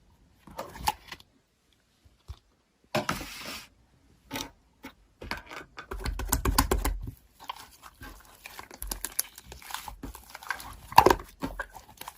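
Slime being pressed, poked and stretched by hand: irregular crackling, clicking and squishing sounds, with a louder low rumbling push about six seconds in.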